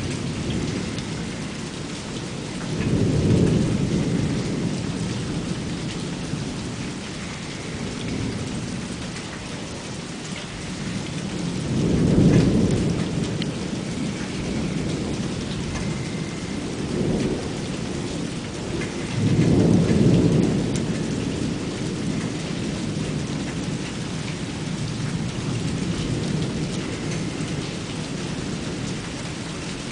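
Thunderstorm: steady rain hissing, with rolling thunder that swells into three loud low rumbles (a few seconds in, near the middle and about two-thirds through) and a lighter one between them.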